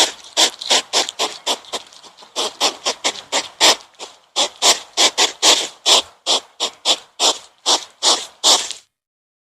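An animal making a rapid series of short, breathy puffs without any clear pitch, about three a second, that stop shortly before the end.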